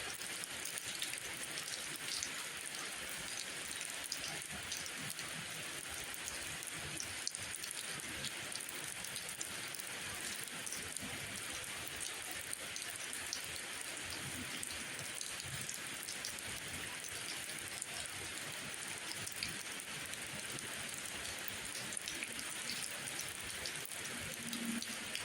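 Steady rain falling, a dense even hiss with scattered individual drops ticking through it.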